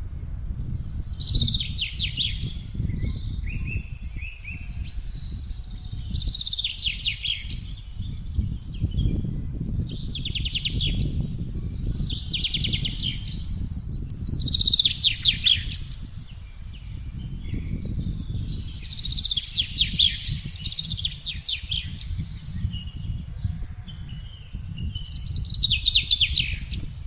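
Songbird song: short, fast trilled phrases repeated about every two seconds, over a steady low rush of gusting wind.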